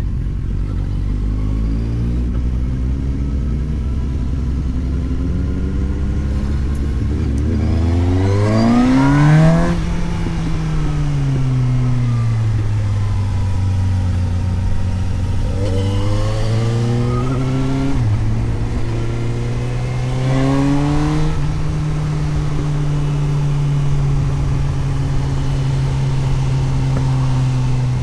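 Suzuki GSX-S750's inline-four engine on the road: a steady low-rev cruise, then a hard rev-rise about eight seconds in, a falling note as the throttle closes, and two more climbs each broken by a quick upshift before it settles to an even cruise.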